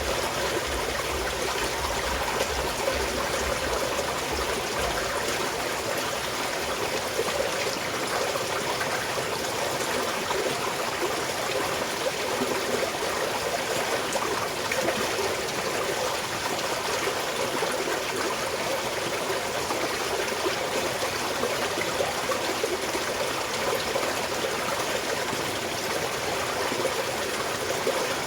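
Small mountain stream flowing and trickling over stones in a steady, even rush. A faint low rumble underneath dies away about five seconds in.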